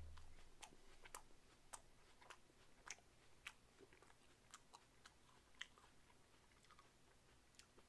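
Faint chewing of a mouthful of raw apple: short sharp clicks at irregular intervals, about one or two a second.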